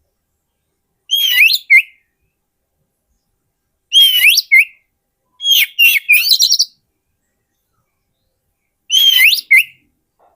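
Oriental magpie-robin singing: four short bursts of loud, varied whistled phrases with sliding notes. They come about a second in, near four seconds, just before six seconds, and about nine seconds in, with silence between them.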